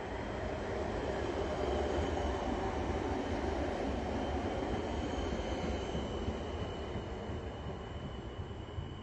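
Electric multiple unit pulling in along an underground station platform. The running and wheel noise is loudest about two seconds in and then eases as the train slows, while a thin high whine sinks slightly in pitch through the second half.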